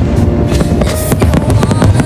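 Show music playing loudly with many sharp fireworks bangs and crackles going off in quick succession.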